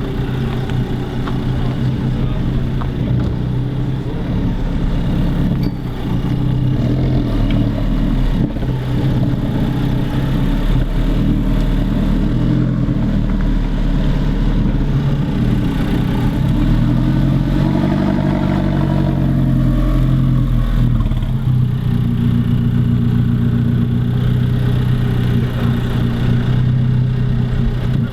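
Alfa Romeo 4C's 1.75-litre turbocharged four-cylinder engine running at a steady idle, with one slow rev that rises and falls back to idle about two-thirds of the way through.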